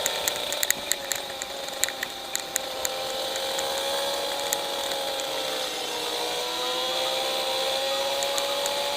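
Yamaha RD350's two-stroke twin engine running at a steady pace on the move. Its note wavers slowly, dipping about six seconds in and climbing back. Scattered sharp ticks and crackles are heaviest in the first few seconds.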